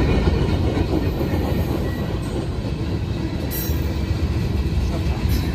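Freight cars of a CSX freight train rolling past, a steady heavy rumble of steel wheels on the rails.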